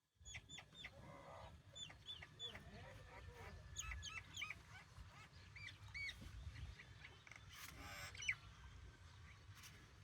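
Many short, high-pitched squeaky calls, one after another, over a low rumble.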